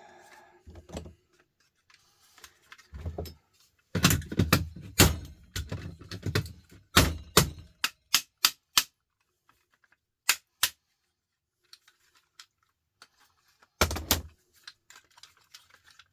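Hand tools knocking and prying at a hard plastic housing to break it open. A dense run of sharp knocks and cracks comes about four seconds in, then a few lone clicks, and one more knock near the end.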